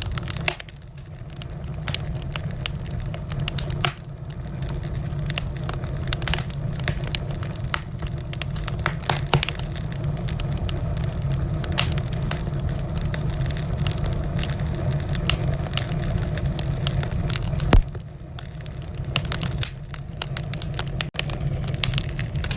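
Wood fire burning in a fireplace: a steady low rumble of flame under frequent sharp crackles and pops, with one louder pop about three quarters of the way through.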